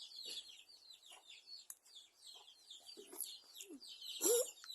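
Chickens clucking, with a louder call rising in pitch near the end, over constant high-pitched chirping of birds.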